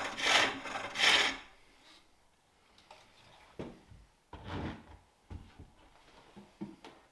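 Turning tool shaving wood from a bowl blank on a spring pole lathe: two rasping cutting strokes in the first second and a half, then a pause broken by a few soft scrapes and knocks.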